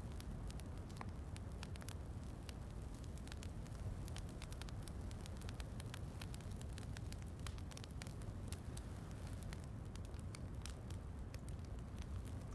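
Wood fire crackling in a fireplace, with frequent irregular sharp pops over a steady low rumble, mixed with a soft hiss of rain.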